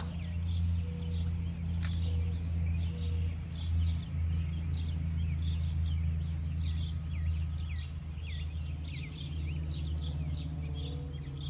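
Many small birds chirping, a dense run of short, quick falling calls, over a steady low rumble.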